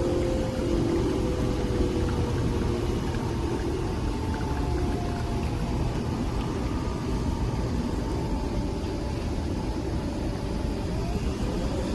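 Coffee machine running steadily: a continuous motor-and-pump hum with a faint whine that slowly falls in pitch and then rises again near the end.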